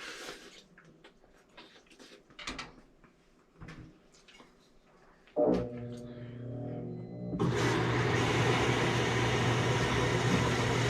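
Samsung washing machine in its rinse stage: after a few faint clicks, a motor or pump hum starts suddenly about five seconds in. About two seconds later a loud steady rush of water joins it and holds.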